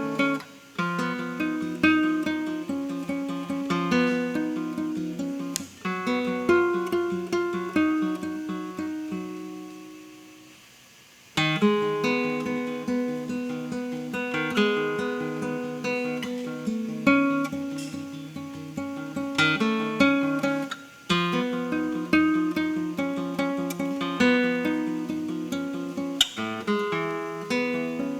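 Solo acoustic guitar playing a contemporary classical piece, plucked notes and chords in quick runs. About ten seconds in, the notes fade out for a moment before the playing starts again.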